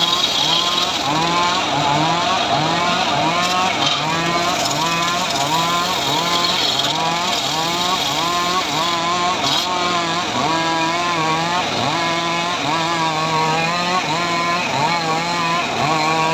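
Homemade srekel chainsaw-type saw running under load while ripping sengon wood. Its engine pitch rises and falls in a steady rhythm, roughly one and a half times a second, as the cut loads and unloads it.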